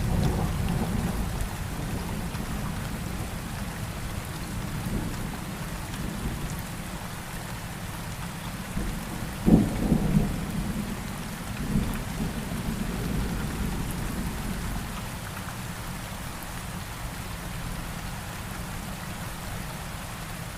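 Steady rain with thunder rumbling underneath. The rumble eases over the first seconds, a louder peal of thunder comes about halfway through, and a smaller one follows a couple of seconds later.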